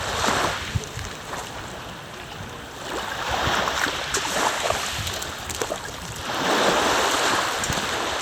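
Lake waves washing and lapping, swelling up twice, with wind rumbling on the microphone.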